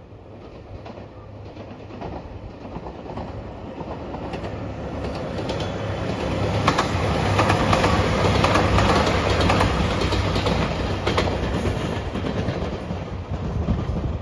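JR Shikoku 2700 series diesel limited express passing at speed. Engine hum and rail-joint clickety-clack swell to a peak about seven to ten seconds in, then fade as it goes by.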